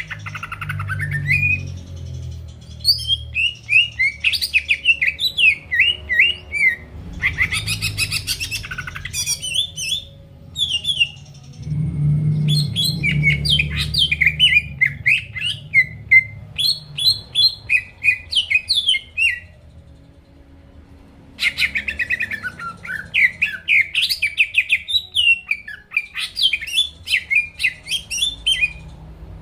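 Cucak ijo (green leafbird) singing in full voice: quick runs of varied chirps and short whistled glides in phrases, broken by brief pauses. A low hum runs underneath.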